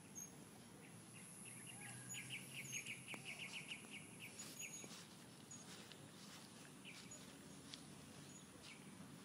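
Quiet outdoor background noise with a low hum. A bird chirps in a quick run of short high notes, about six a second, from about two seconds in until nearly five seconds, with a few scattered faint chirps elsewhere.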